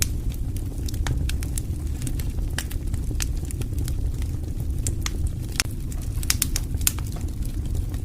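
Wood fire burning in a fireplace: a steady low rumble of flames with frequent irregular crackles and sharp pops, a few louder pops past the middle.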